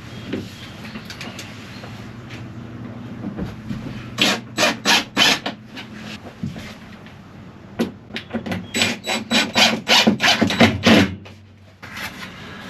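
Rhythmic scraping strokes on wood, in two runs: a short one and then a longer, louder one. A low steady hum runs underneath.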